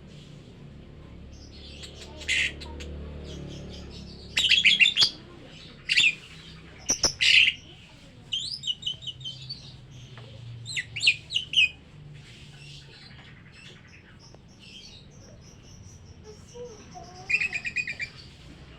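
Lovebirds chirping in short bursts of rapid, repeated shrill notes, loudest about five seconds in and again near the end.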